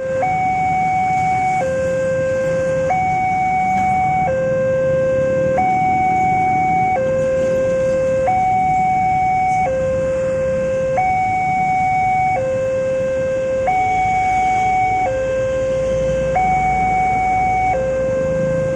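Railway level-crossing warning alarm sounding a steady two-tone alternation, a lower and a higher tone swapping about every second and a half, the signal that a train is approaching. A low rumble of road traffic sits underneath.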